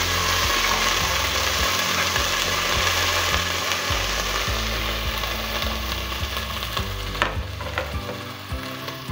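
Crushed ginger and garlic sizzling in hot coconut oil in a nonstick pan, stirred with a spatula at first. The sizzle is steady, then slowly dies down near the end, with a few light taps shortly before.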